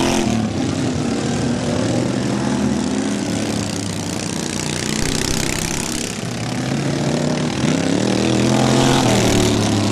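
Racing lawn mower engines running loud, their pitch climbing near the end as they rev.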